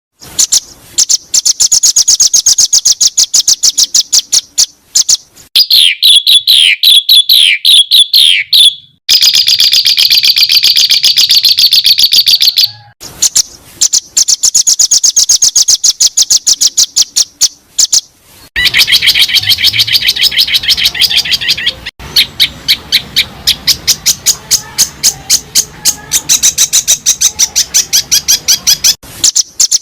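Recorded songbird song used as masteran for tutoring caged songbirds: rapid runs of repeated high chirping notes and warbling trills. The song is spliced into several segments that switch abruptly about 9, 13 and 18 seconds in.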